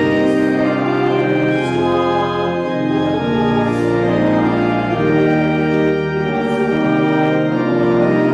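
Organ playing a slow offertory, with held chords that change about once a second.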